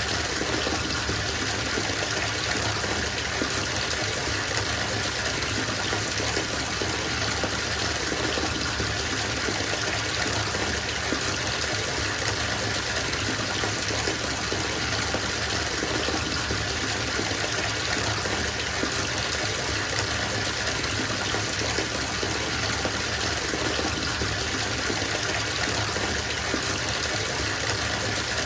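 Bathtub filling from the tap: a steady, unbroken gush of water pouring into the tub.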